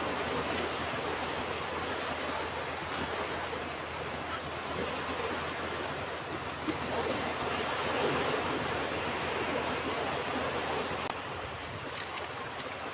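Ocean waves breaking and washing up on a beach, a steady rushing surf that swells gently, louder about eight seconds in.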